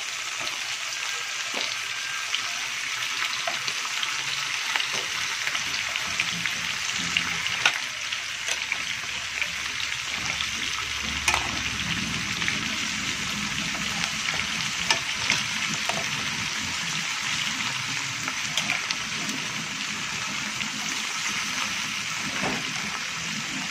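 Raw chicken pieces sizzling in hot oil in a nonstick wok, a steady frying hiss. A few sharp clicks of metal tongs against the pan stand out as more pieces are laid in.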